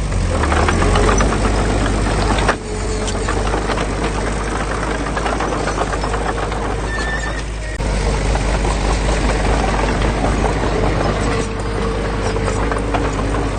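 Heavy earthmoving machine's diesel engine running steadily, with a low rumble and rattling noise on top. The sound changes abruptly twice, about two and a half and eight seconds in.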